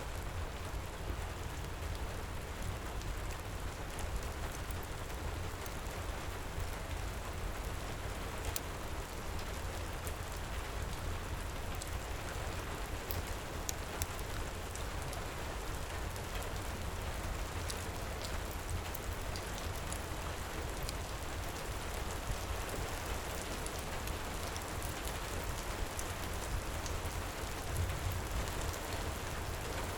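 Heavy rain falling steadily, with scattered small, sharp crackles of a wood fire over it.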